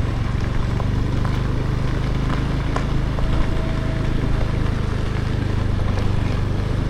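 Motorbike engine running steadily while riding, under a continuous haze of wind and road noise.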